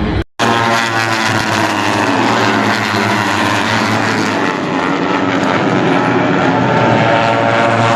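Racing motorcycles running at high revs as they pass on the circuit, several engine notes overlapping and shifting in pitch. The sound cuts out briefly just after the start.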